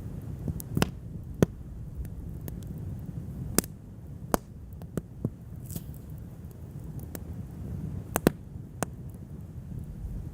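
Wood fire crackling, with sharp irregular pops every second or so over a low steady rumble.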